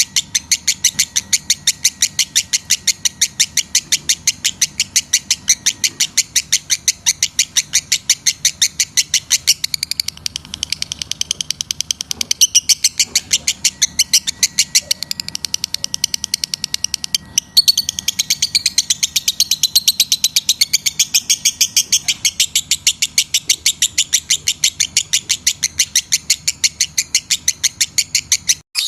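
Lovebird chirping in a fast, even run of sharp high-pitched calls, about five a second, with a short break past the middle. This is the kind of breeding-season chatter played as a lure to bring lovebirds into steady breeding condition.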